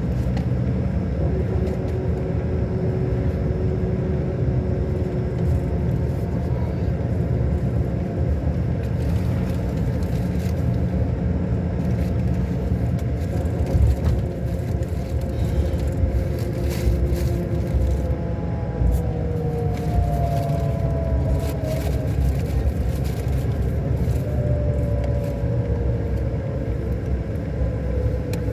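Scania K400 coach's inline-six diesel engine running under way: a steady rumble with whining tones that glide slowly up and down in pitch as the engine speed changes.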